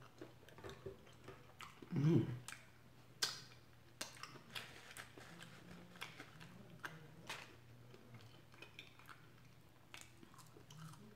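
Close-miked eating sounds: chewing with sharp, crisp crunches of fried food, roughly one every half second to second. About two seconds in there is a short, louder low sound from the eater's voice or throat, like a hum.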